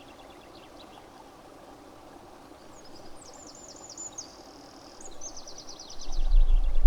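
Steady rushing of flowing water, with a small songbird singing rapid high trills, one phrase about 3 seconds in and a falling trill just after it. Near the end, a loud low rumble of wind buffeting the microphone comes in over it.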